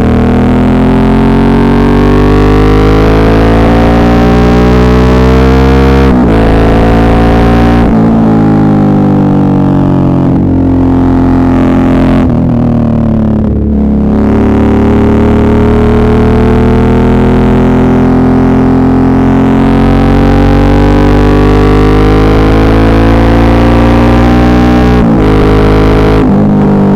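Suzuki V-Strom 650's V-twin engine pulling under load, its revs rising and falling through about half a dozen gear changes.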